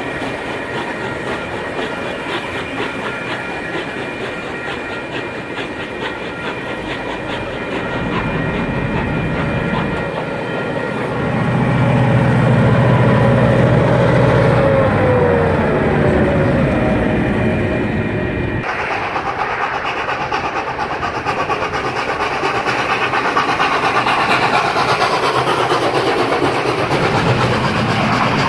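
Passenger carriages rolling past with wheels clicking over the rail joints. Then 42 class diesel-electric locomotive 4204 passes close by: its engine hum grows loud and falls in pitch as it goes by, about halfway through. After a sudden change, more carriages rush past with steady wheel noise.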